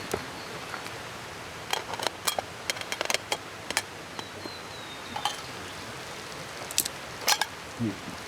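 Steady rushing hiss of a flowing river, with irregular sharp clicks and taps scattered over it, several in quick succession about two to four seconds in and again near the end.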